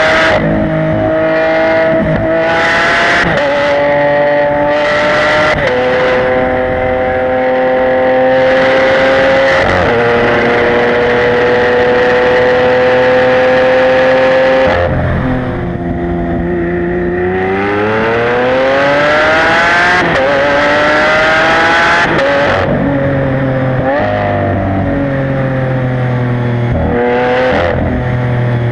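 Lamborghini Aventador LP700-4's V12 with factory racing exhaust pulling hard through the gears. Its pitch drops sharply at each upshift, with sharp cracks at some shifts. About halfway through it eases off briefly, then climbs steadily through the revs in one long pull before shifting up again several times.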